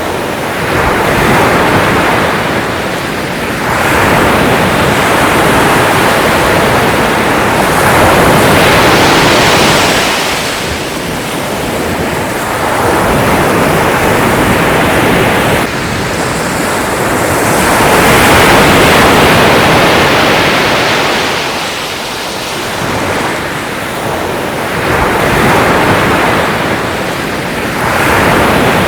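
Sea waves breaking and washing on a shore, a continuous rush of surf that swells and falls back every few seconds.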